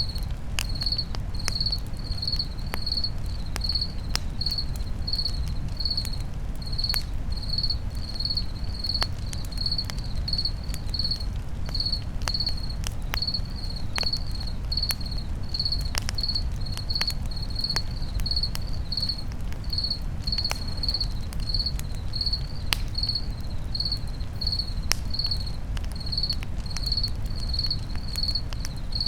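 Campfire crackling, with scattered sharp pops over a steady low noise, while a cricket chirps evenly at about two high chirps a second.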